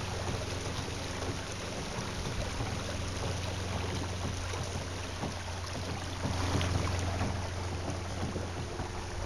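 Steady rush of water and wind on the microphone from a kayak moving quickly across the water, with a low steady rumble underneath; it swells a little about two-thirds of the way through.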